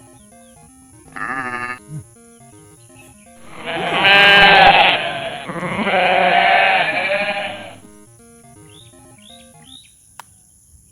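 A sheep bleating: one short bleat about a second in, then two long, loud bleats in the middle, over background music.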